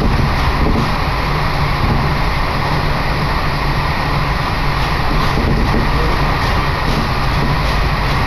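Commuter train running along the line, heard from inside the passenger car: a steady rumble of wheels and motors.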